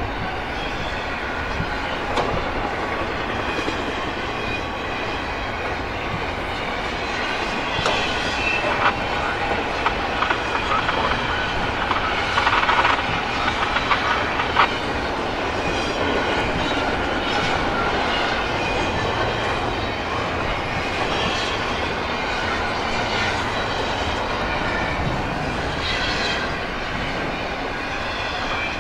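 Freight train rolling past, its wheels clicking over rail joints, with thin squealing tones from the wheels on the rails.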